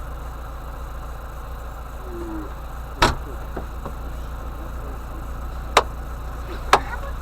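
UAZ-452 'bukhanka' van engine idling steadily, with three sharp knocks, the loudest about three seconds in and two more near the end.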